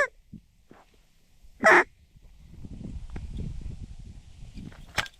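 Duck call blown in two short, loud quacks about a second and a half apart, calling to ducks working the decoys. Wind rumbles between them, and there is a sharp click near the end.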